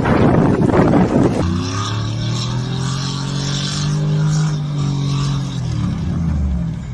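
A rushing noise like wind on the microphone, then, about a second and a half in, a motor vehicle's engine drone whose pitch rises a little and falls away as it passes, fading near the end.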